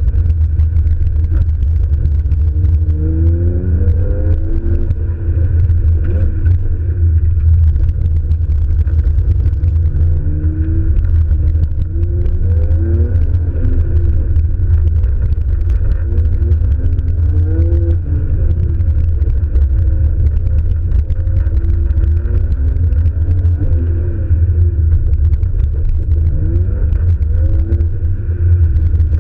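Nissan R32 Skyline GT-R's engine heard from onboard during a timed autocross run, revving up and dropping back again and again as the car is driven through the course, over a heavy, constant low rumble. The sound is dull and muffled, picked up by a camera sealed in its case.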